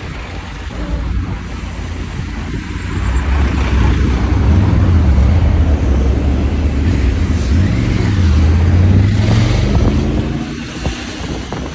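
Motorcycle engine running on the road. It gets louder and rises in pitch from about three seconds in, eases off briefly, rises again, then drops back near the end.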